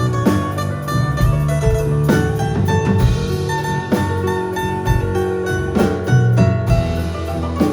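Live band music: guitar notes over held bass notes and a drum kit keeping a steady beat.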